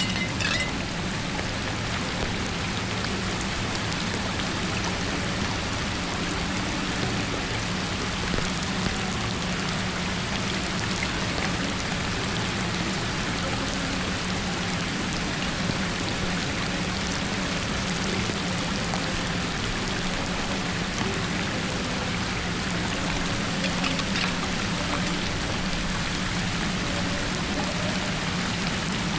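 Steady rushing of floodwater pouring down into a cleared storm drain.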